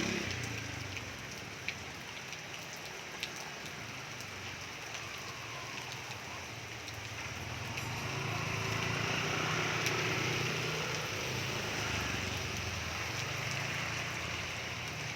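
Rain falling steadily, an even hiss with a few faint drop ticks, over a low rumble that swells about halfway through.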